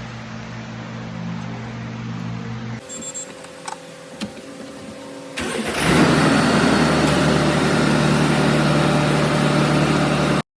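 Mack Granite truck's diesel engine running with a steady hum. After a cut comes a quieter stretch with a few clicks and knocks, then about five and a half seconds in the engine comes up loud and keeps running steadily until the sound cuts off abruptly near the end.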